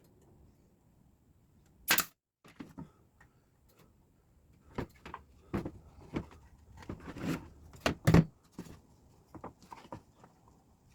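Irregular sharp knocks and clicks of wooden boards being handled and fastened during assembly: one loud knock about two seconds in, then a cluster of knocks from about five to ten seconds in.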